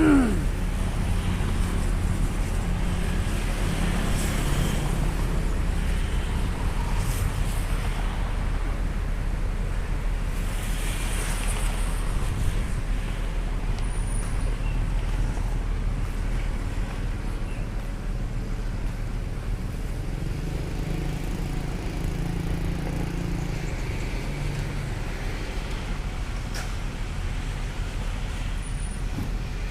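Diesel truck engine running steadily, mixed with traffic noise. A short falling whistle sounds right at the start.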